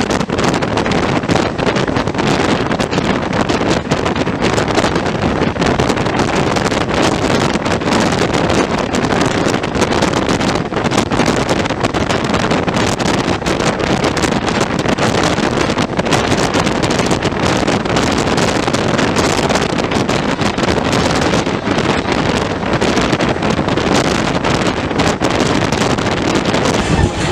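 Steady rushing noise of a moving express train, with wind buffeting the microphone.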